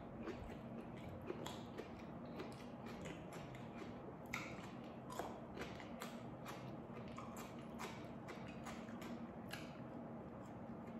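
A person biting and chewing: scattered soft crunches and wet mouth clicks from eating a raw petai (stink bean) pod with its skin and rice taken by hand, over a faint low steady hum.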